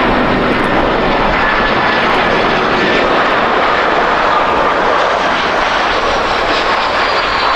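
Jet airliner's engines running loud and close, a steady roar with a thin whine that slowly falls in pitch as the aircraft passes.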